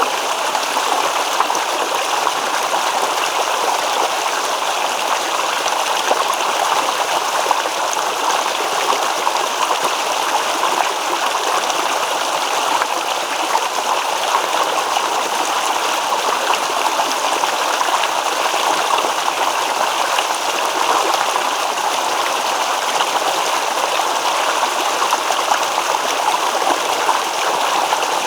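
Shallow stream babbling over stones, a steady rush of water with fine gurgles and splashes.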